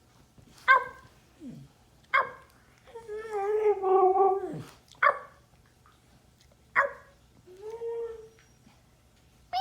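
Husky barking in short sharp barks, with a longer wavering, howl-like call about three seconds in.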